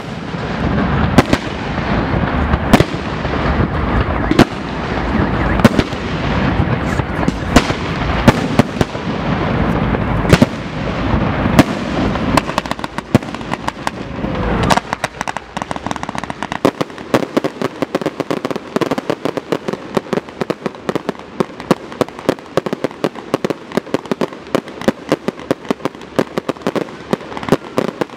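Fireworks display: aerial shells bursting with sharp bangs about every second and a half over a low rumble, giving way about halfway through to a dense, rapid crackling.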